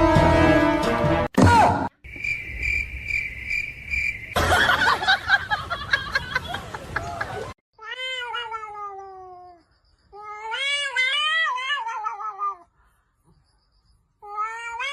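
A cat giving long, drawn-out meows, three in all in the second half, the first falling in pitch and the second wavering up and down. Earlier there is a dense music-like passage, then a high, steadily pulsing beep-like tone.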